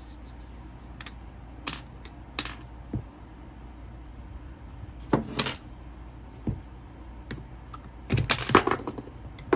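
Scattered light clicks and knocks of the polisher's disassembled gearbox parts being handled on the bench, a few seconds apart, with a busier cluster of knocks near the end, over a steady low hum.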